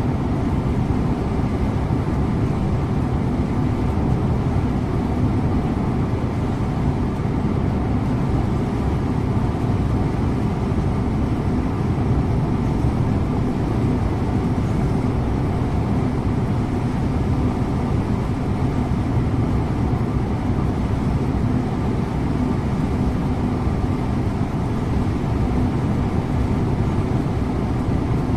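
Scania InterLink coach's diesel engine drone and tyre and road noise, steady throughout while the bus cruises at an even speed, heard from the driver's position.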